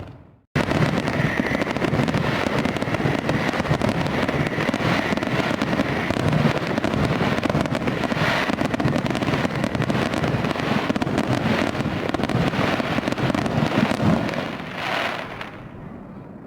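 Fireworks crackling densely and continuously, a rapid spatter of small pops, beginning after a brief dead gap and fading near the end.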